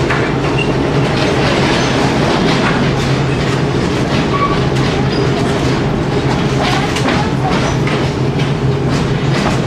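NSW 620/720-class diesel railcar running along the track: a steady engine hum under wheel and track noise, with the clickety-clack of the wheels over rail joints.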